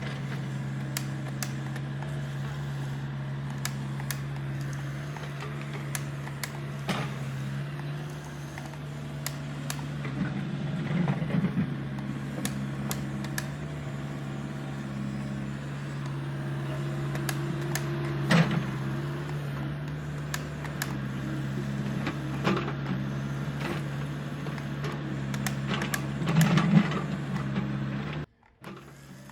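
Small electric motors of a remote-control toy excavator running with a steady hum, broken by scattered clicks and knocks. The hum cuts off suddenly near the end.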